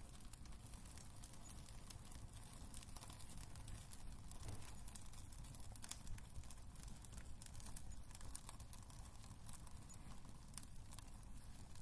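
Wood fire crackling in a fireplace: irregular sharp pops and snaps over a low steady rumble of the burning.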